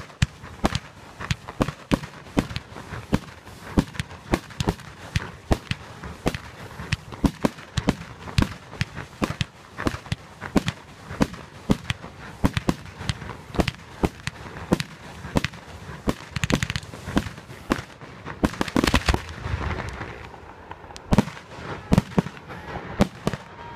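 A fireworks display, with aerial shells bursting in a rapid run of sharp bangs, several a second. A denser stretch of crackle sets in about three-quarters of the way through, followed by another volley of bangs near the end.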